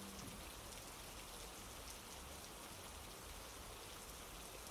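Faint, steady rain ambience: an even hiss with light scattered drop sounds.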